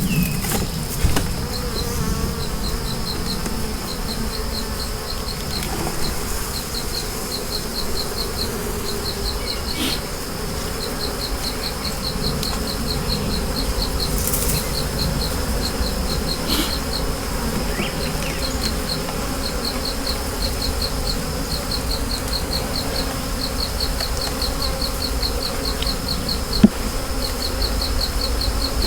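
Honeybees buzzing around open nuc hives during an inspection, a dense steady hum. Over it runs a high, rapid, regular chirping, and there are a few light clicks and one sharp knock near the end.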